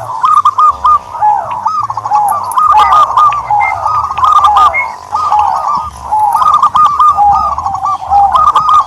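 Turtledoves calling: a dense, loud run of short cooing notes, each rising and falling at much the same pitch, overlapping one another with only brief gaps.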